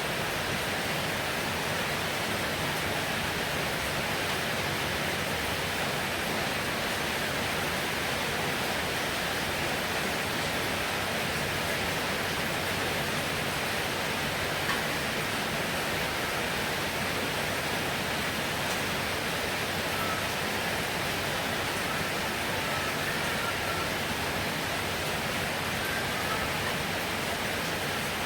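Heavy rain falling, a steady even hiss with no thunder. A single small tap sounds about halfway through.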